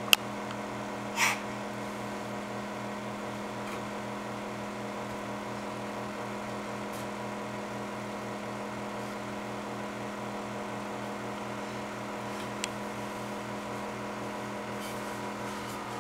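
A steady mechanical hum with a low, even pulse, broken about a second in by a short, loud hiss.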